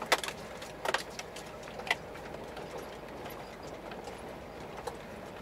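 Steady engine and road noise inside a Scania truck cab, with a few sharp clicks in the first two seconds.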